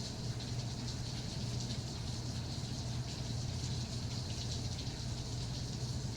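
Steady rain falling, an even hiss of many fine drops, over a steady low hum.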